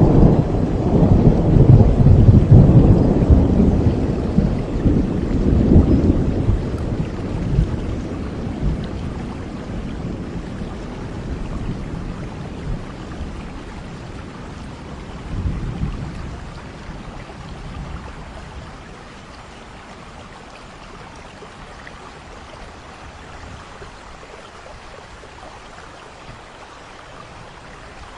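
Rolling thunder over steady rainfall. The thunder rumbles loudest in the first few seconds and slowly dies away, with a shorter rumble about halfway through, leaving only the even hiss of the rain.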